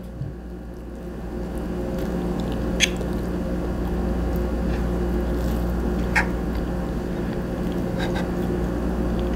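A person chewing a mouthful of pancake, with a few light clicks of a fork and knife on a plate, over a steady low hum.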